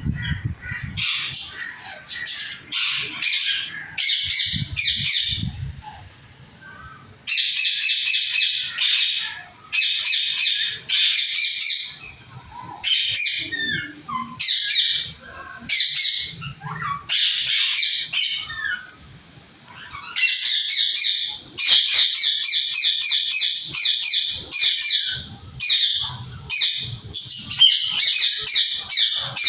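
Parrots squawking and chattering in rapid strings of shrill, harsh calls broken by short pauses. From about twenty seconds in, the calls come thicker and almost without a break.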